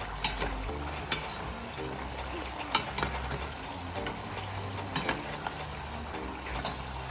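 Sweet potato fries sizzling in hot oil with caramelized sugar, a steady frying hiss. Tongs click against the pan about six times as the fries are stirred and turned.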